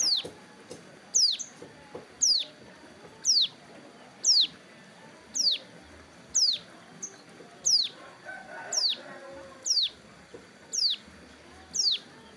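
Ciblek gunung giving a sharp, high, downward-sweeping call, repeated about once a second. The bird is mid-moult in its wing feathers and still calling.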